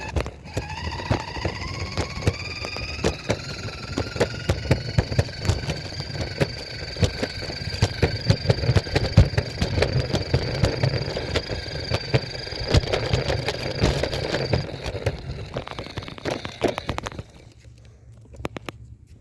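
A child's motorcycle running under way: its motor whines, rising in pitch over the first few seconds as it speeds up, then holds steady, over constant knocking and rattling. It stops about seventeen seconds in.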